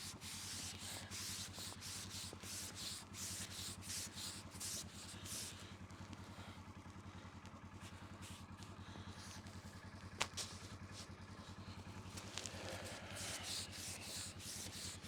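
Footsteps crunching through snow at a steady walking pace, with one sharp click about ten seconds in and a faint low hum underneath.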